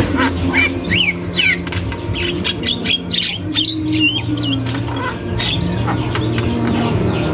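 Javan myna (jalak kebo) calling continuously in a rapid run of short whistles and chirps, some sweeping up and down in pitch, over a steady low hum.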